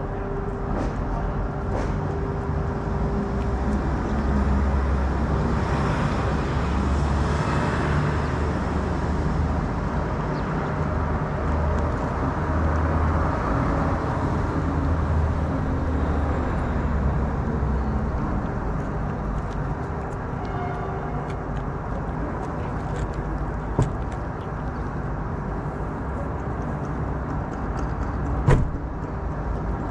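A motor vehicle's engine running steadily close by, with traffic noise swelling and fading twice. Two short knocks near the end, the second louder.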